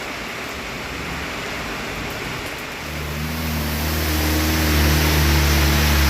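Steady hiss of heavy rain. About three seconds in, a motor vehicle's engine hum and wet-road tyre hiss come in and grow louder, as the vehicle approaches.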